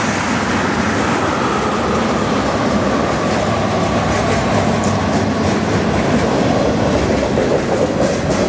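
A freight train's tank cars and covered hoppers rolling past at speed, with a steady rumble of steel wheels on the rails and a clickety-clack of wheels over the track.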